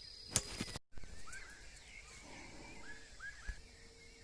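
Birds calling in the forest: a string of short chirps that bend in pitch, several close together near the middle and end, with a few higher whistles over faint natural background. A single knock comes just before a brief cut about a second in.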